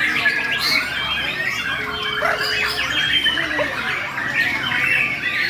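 A murai borneo (Bornean shama) singing hard: a dense, unbroken stream of rapid varied whistles, trills and harsh chattering notes, the aggressive fighting song of a male in full voice.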